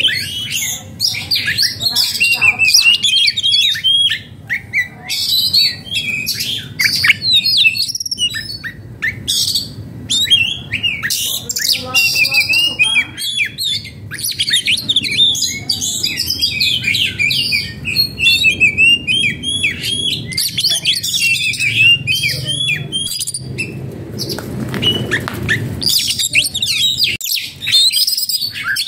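Oriental magpie-robin (kacer) singing: a loud, rapid, varied run of chirps, trills and whistled notes with short breaks, the agitated song of a bird in breeding condition.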